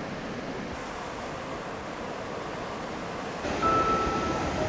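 Steady rush of ocean surf and wind at a beach break. About three and a half seconds in it gives way to a louder, different background with a steady high tone.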